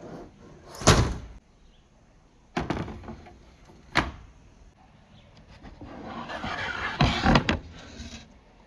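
Marbles knocking and rolling through a PVC pipe and rain-gutter marble run: a few sharp clacks spaced a second or more apart, then a rising rolling rush around the middle that peaks with a cluster of clacks and fades near the end.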